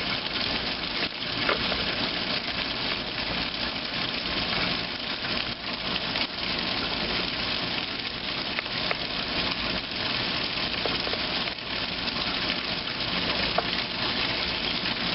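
2008 Kenmore washing machine running its heavy duty cycle, a steady rushing noise, with a clothes dryer tumbling alongside.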